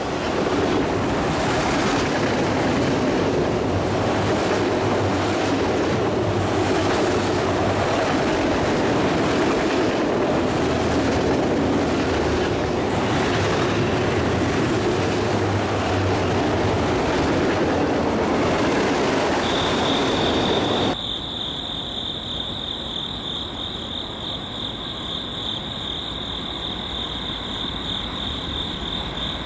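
A freight train of enclosed autorack cars rolls past at close range with steady, loud wheel-on-rail noise. The noise stops abruptly about 21 seconds in. After that a much quieter scene holds a steady high-pitched drone.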